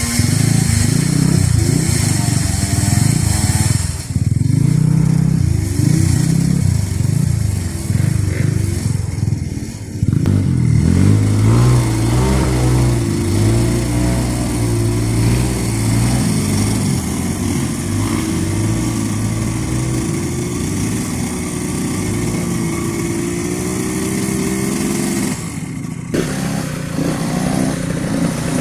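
Off-road trail motorcycle engines revving hard and unevenly, the pitch rising and falling as they labour on a steep muddy climb. Near the end the sound changes abruptly.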